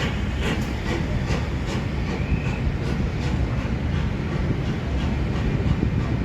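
Train passing with a low rumble, its wheels clicking sharply over rail joints several times a second.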